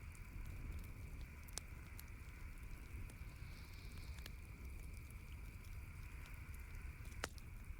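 Campfire crackling: scattered sharp pops and snaps over a steady soft hiss, with the loudest pop near the end.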